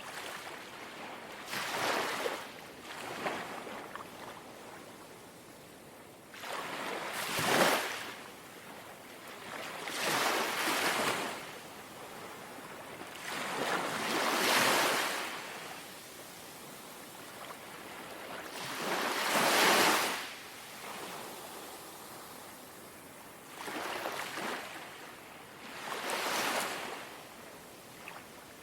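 Small, gentle sea waves lapping on the shore, each washing in with a rising hiss and fading away, roughly seven in turn, the strongest about a third of the way in and again near two thirds.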